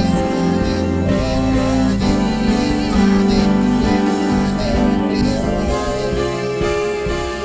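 Live gospel worship music: a band holding sustained chords over a steady beat, with singing.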